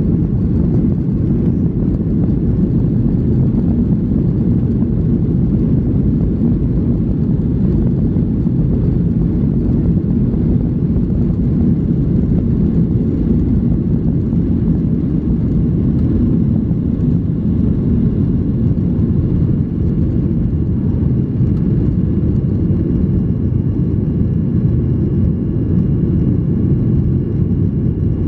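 Steady low cabin noise inside a Boeing 737-800 airliner, its CFM56 engines running at high power shortly after takeoff. Faint high steady whines show through the noise near the end.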